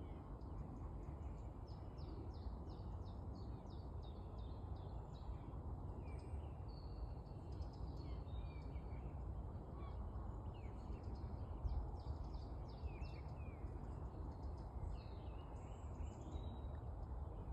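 Woodland birds singing in a dawn chorus: many short chirps and trills from several birds, over a steady low background rumble.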